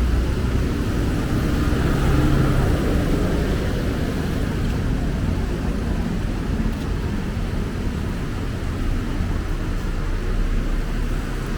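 City street traffic: engines of passing vehicles over a steady low rumble, a little louder about two seconds in.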